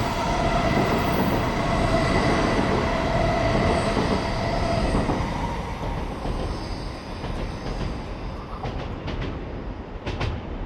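Shinkansen bullet train running along the platform track: a steady rush with a faint whine in it. It fades away over the second half as the train moves off, and a few light clicks come near the end.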